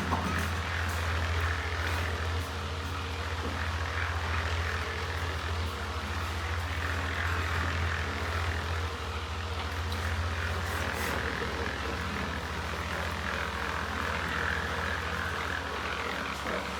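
A steady low engine drone with a hiss above it, from running machinery.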